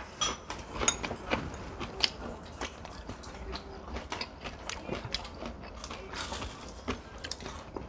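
Close-up eating sounds: irregular crisp crunches and chewing of breadcrumb-coated zucchini fritters.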